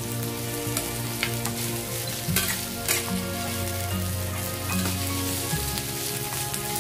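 Sliced onion, garlic and ginger sizzling in hot oil in a stainless steel pan, with a spatula stirring and scraping through them and a few sharp clicks of metal on the pan.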